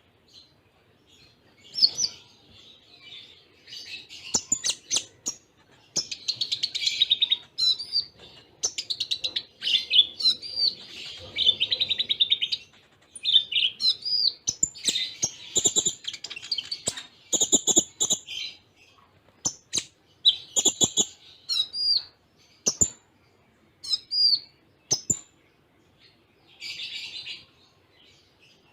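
Konin (kolibri ninja) sunbird singing: bursts of rapid, high trills and chirps packed with cililin-style phrases, separated by short pauses.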